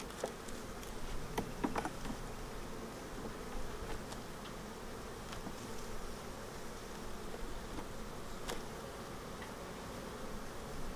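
Honeybees buzzing steadily around an open hive, with a few light clicks and knocks scattered through.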